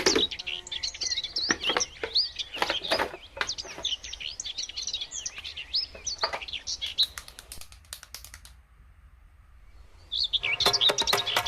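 Birds chirping in quick, repeated short calls, mixed with scattered sharp clicks and taps. The sound drops away for about two seconds near the end, then the chirping starts again.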